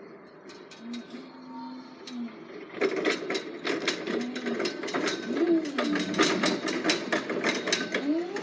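Rapid, irregular clattering and knocking, starting about three seconds in, with faint voices behind it.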